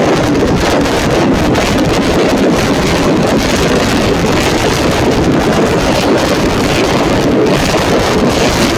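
Tuned 130cc underbone racing motorcycles running around the circuit, heard as a loud, steady mass of engine noise with wind buffeting the microphone.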